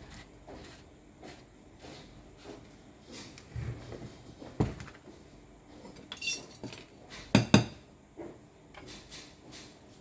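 Tools and metal parts being handled and set down on a workbench: scattered light clicks and clinks, a sharper knock about halfway through, then a ringing clink and two loud knocks in quick succession.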